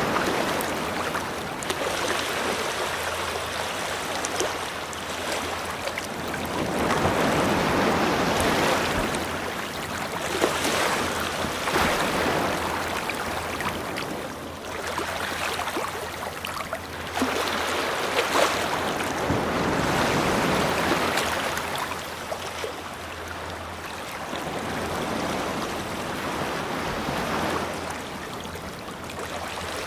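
Ocean waves breaking and washing up a beach, the surf swelling and falling back every few seconds.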